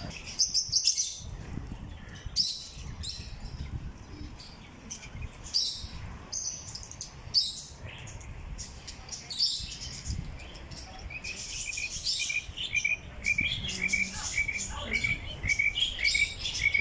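Small aviary birds, lovebirds among them, chirping: scattered short, high chirps throughout, and from about two-thirds of the way in a quick run of short repeated notes.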